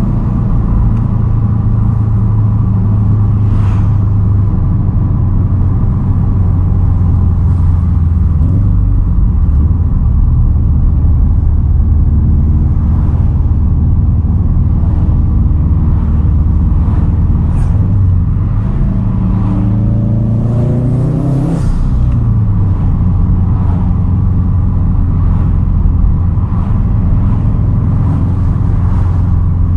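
2010 Subaru WRX STI's turbocharged flat-four running through a Tomei titanium single straight-pipe exhaust, pulling steadily under load. About twenty seconds in the revs climb for a couple of seconds and then drop sharply, as at a gear change.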